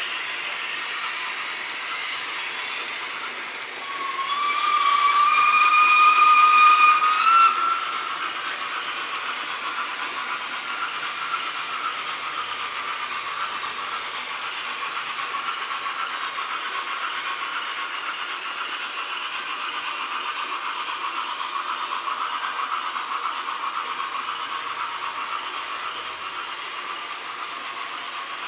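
H0-scale model trains running on the track, a steady whirring run noise. A steam-locomotive whistle from a sound-equipped model locomotive blows once, about four seconds in, held for three to four seconds and rising slightly in pitch just before it cuts off.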